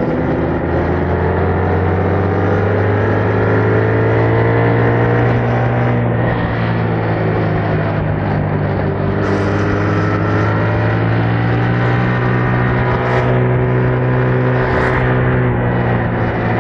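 Yamaha MT-07's parallel-twin engine running through its stock exhaust while riding at a fairly steady speed. The engine note drifts gently up and down rather than revving hard.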